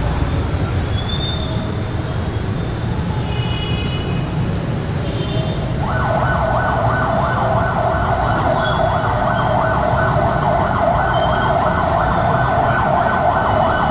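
Busy city street traffic, mostly motorbikes, as a steady low rumble with short high beeps scattered through it. About halfway through, a loud steady mid-pitched buzz joins in and holds.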